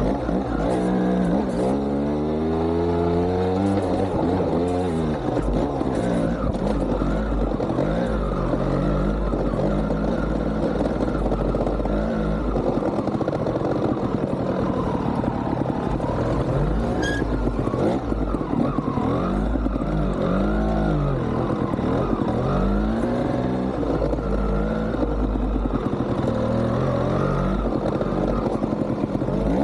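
GasGas TXT 200 trial motorcycle's two-stroke single-cylinder engine being ridden, revved up and down over and over with short throttle bursts, its pitch rising and falling all the way through.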